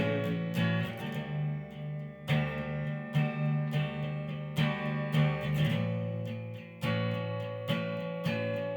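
Instrumental break in a song: acoustic guitar strummed in a steady rhythm, without vocals.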